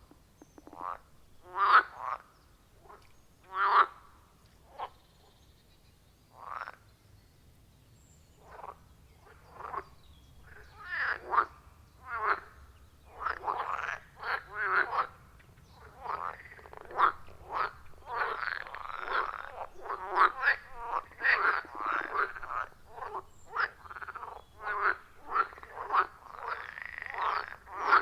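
Frogs calling at a pond: scattered short croaks for the first several seconds, thickening into a dense, overlapping chorus from about ten seconds in.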